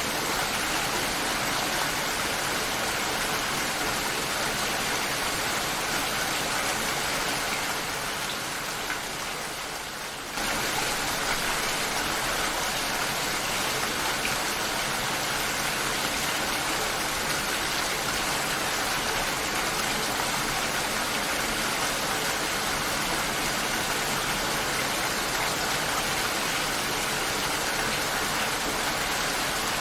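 Steady heavy rainfall, an even hiss of falling rain. It fades a little about eight seconds in and comes back suddenly at full strength about ten seconds in.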